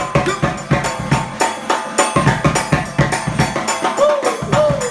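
New Orleans brass band drums, snare and bass drum, playing a steady, driving groove, with a few sliding pitched notes near the end.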